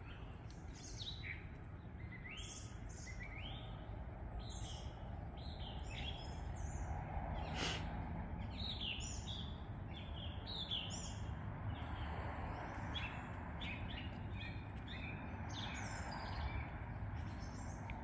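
Several birds singing and chirping, with many short, quick notes overlapping one another, over a steady low background rumble.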